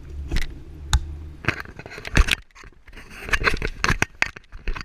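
Bicycle ridden over rough ground: irregular rattling, scraping and sharp knocks, with low wind rumble on the microphone early on.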